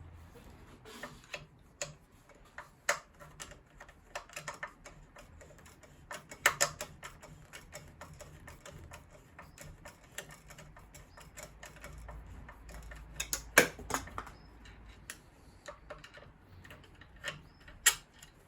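Irregular clicks and taps of hand tools and small metal parts while a small brass screw is worked out of a boiler's gas valve and mixing unit, with a few louder knocks about 13 to 14 seconds in and near the end.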